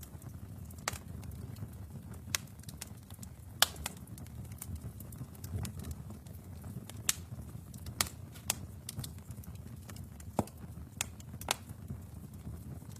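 Wood fire burning in a fireplace: a steady low rumble of flames with irregular sharp crackles and pops, about a dozen of them loud.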